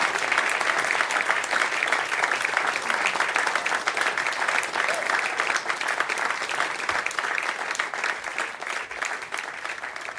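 Audience applauding: many hands clapping densely, slowly dying away near the end.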